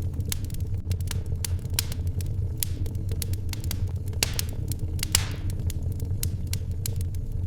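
Wood fire crackling in a fireplace: irregular sharp pops and snaps over a steady low rumble, with two brief hisses about four and five seconds in.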